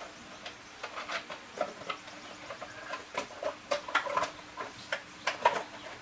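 Irregular light clicks, taps and scrapes of small parts and tools being handled, over a faint steady hum, busiest in the second half.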